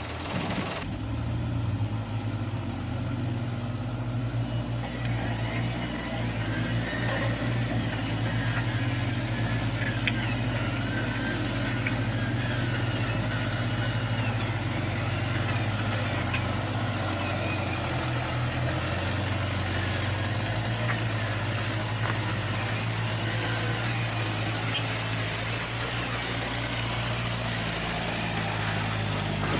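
Radio-controlled Canter truck model running with a steady, engine-like hum that shifts slightly in pitch now and then.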